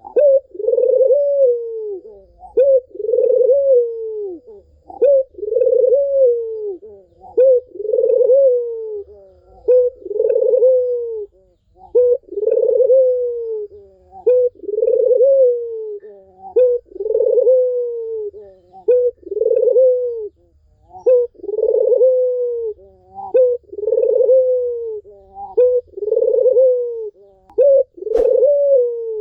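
Puter (Barbary dove) cooing over and over, a short note followed by a longer falling coo, repeating about every second and a half without a pause: a lure call used to set a silent puter calling.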